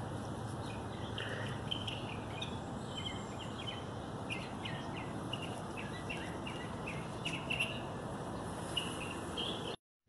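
Songbird chirping: many short, high chirps repeated irregularly over a steady background hiss, cutting off suddenly near the end.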